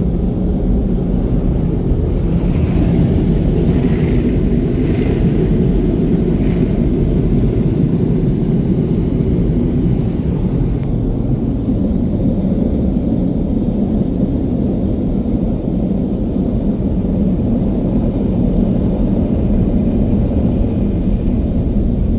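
Car wash air dryers blowing, a loud, steady rushing noise that holds without a break.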